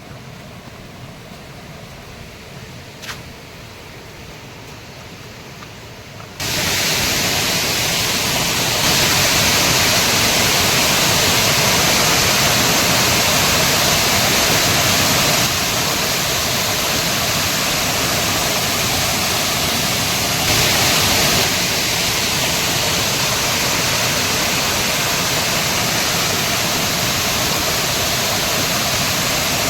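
Waterfall, a loud steady rushing of falling water that comes in suddenly about six seconds in, after a quieter stretch of low hiss with one brief click.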